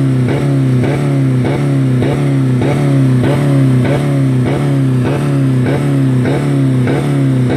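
2000 Dodge Neon four-cylinder engine held against its rev limiter, the speed surging and cutting back about three times a second. It is running with no oil or coolant in it.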